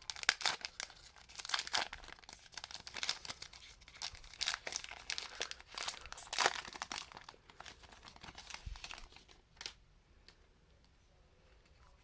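The wrapper of a 2021 Panini Diamond Kings baseball card pack being torn open and crinkled, a dense crackling that stops near the end.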